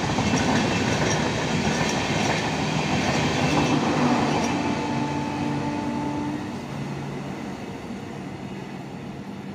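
Passenger train coaches running past at speed, loud at first and fading over the last few seconds as the end of the train goes by, with a steady whine in the middle.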